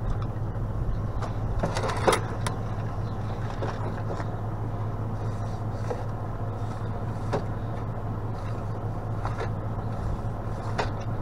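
A vehicle engine idling steadily, a low even hum, with scattered light clicks and knocks over it.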